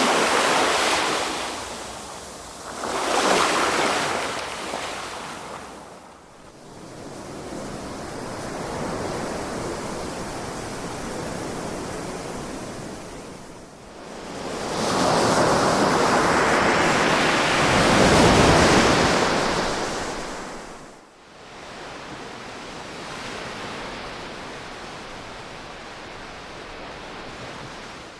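Ocean waves breaking and washing on a beach, rising and falling in slow surges. There are two surges in the first few seconds, then a long, loudest one about halfway through, with quieter wash between.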